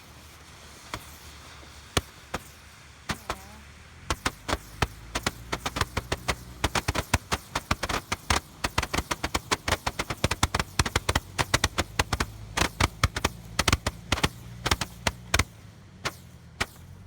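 Firecrackers going off: a few separate bangs, then from about four seconds in a long, rapid, irregular string of sharp cracks that thins out near the end. A steady low hum runs underneath from about four seconds in.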